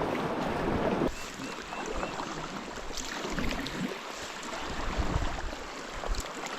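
Water sloshing and splashing around a kayak on a moving river, with scattered small splashes and a few soft knocks. A steady rush of wind on the microphone cuts off abruptly about a second in.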